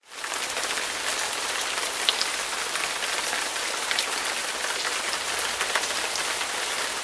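Steady rain falling on a hard surface, with scattered sharp drop ticks; it starts suddenly out of silence.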